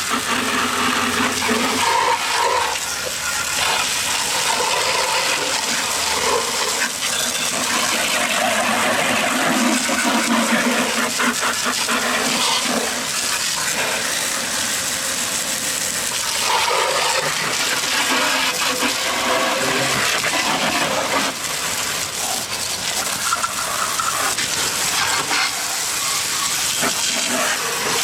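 Water spraying hard against a lawnmower deck, a steady rushing hiss that starts abruptly.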